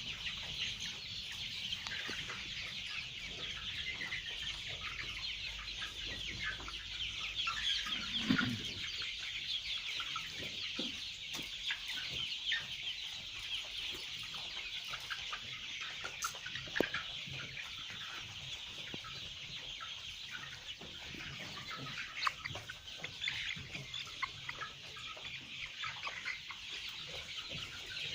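A large flock of farmed chickens calling all at once: a dense, steady chatter of many short clucks and peeps.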